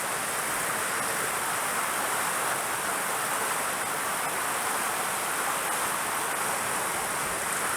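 Mountain stream rushing steadily, an even, unbroken wash of running water.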